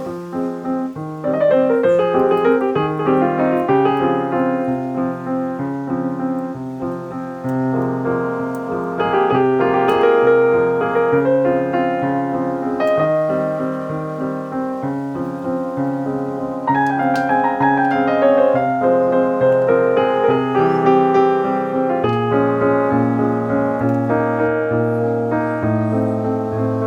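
Background piano music, a steady run of notes with low bass notes under a melody.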